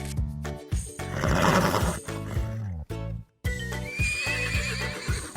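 Background music with a steady beat, with an animal call over it: a high, wavering cry about four seconds in.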